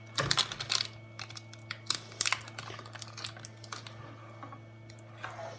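Irregular light clicks and taps of a small tool and fingers working on a laptop motherboard, picking off material near the graphics chip, with a faint crinkle. A steady low hum runs underneath.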